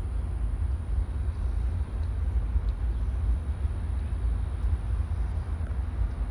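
Wind buffeting the microphone outdoors: a low, uneven rumble that swells and dips constantly.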